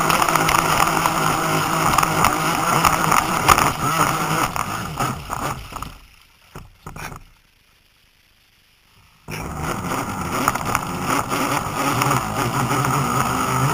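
Radio-controlled model boat running on the water, its motor humming steadily over the rush of water. About six seconds in the sound dies away to near silence for about three seconds, then the motor cuts back in suddenly.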